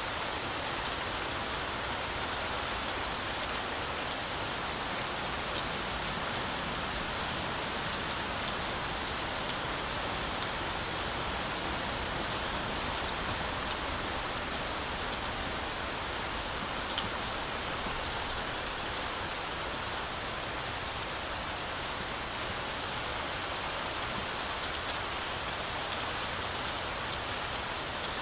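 Heavy, steady rain falling through forest trees, an even hiss of rainfall with scattered drop patter and a single small tick about seventeen seconds in.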